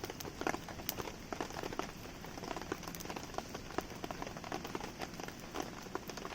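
Steady rainfall with a wood campfire crackling, its pops and snaps scattered irregularly through the hiss of the rain.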